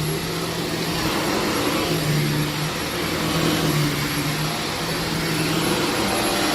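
Carpet-cleaning vacuum motor running steadily: an even rushing drone with a low hum that comes and goes.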